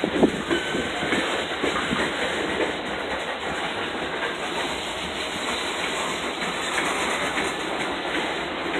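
Loaded covered hopper cars of a freight grain train rolling slowly past on jointed rail: a steady rumble of steel wheels on the track with clickety-clack, and a few sharp knocks and clanks in the first second.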